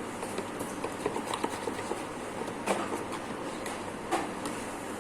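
A couple of light clinks of a spoon against a bowl while brownie batter is worked, over steady background noise.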